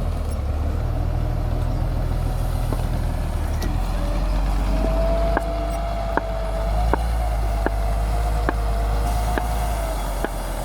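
Caterpillar motor grader's diesel engine running with a steady low rumble. About halfway in, a wavering whine joins it, along with a sharp click a little more than once a second.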